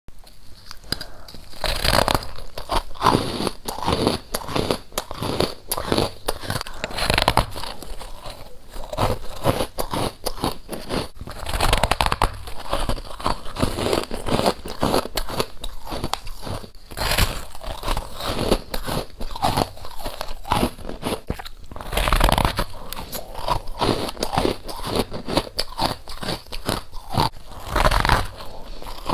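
A person biting into and chewing hard frost, with continuous crisp crunching. A louder crunch comes about every five seconds as a fresh bite is taken.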